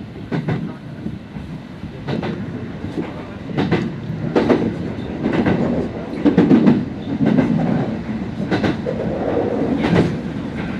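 Kintetsu Nara Line electric train running, heard from inside the front car: a steady low rumble of wheels and running gear, with sharp clacks at uneven intervals as the wheels cross rail joints.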